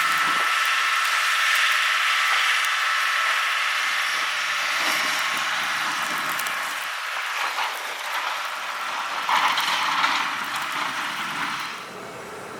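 Steady noise inside a car being driven in a snowstorm, with scattered small rattles and knocks; it drops off sharply near the end.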